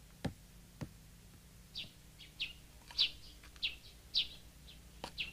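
Small songbird chirping: short, quick, downward-sweeping chirps repeating about twice a second. Two soft taps come in the first second, before the chirping starts.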